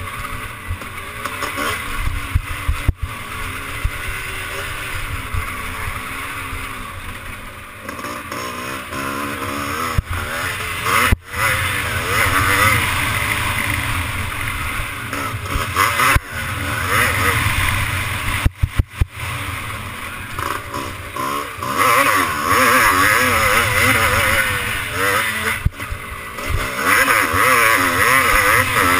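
Motocross bike engine on the track, revs rising and falling constantly as the rider works the throttle and gears, heard from a camera mounted on the bike or rider, with wind rush and a few brief knocks and cut-outs.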